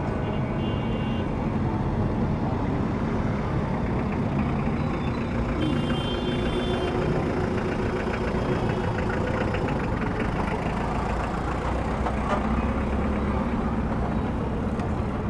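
City street traffic: a large vehicle's engine running close by over the steady rumble of passing cars, with a brief high-pitched tone about six seconds in.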